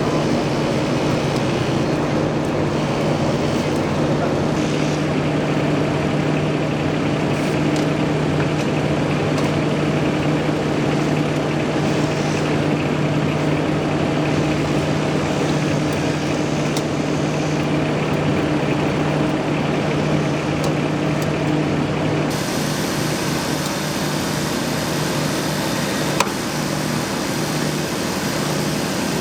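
A large vehicle engine idling steadily, a constant droning hum over road noise. There is one brief click near the end.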